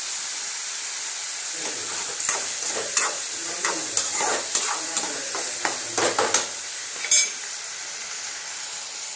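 Chopped onions and dried red chillies sizzling in hot oil in a metal kadai, with a steady high hiss. Through the middle a metal spatula scrapes and stirs them around the pan in quick strokes, and there is one sharp metal clink near the end.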